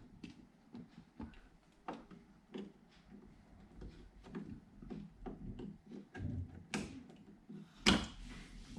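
Irregular handling noises on the bare inner metal of a car door: rubbing and light knocks, with a sharper knock a little before the end.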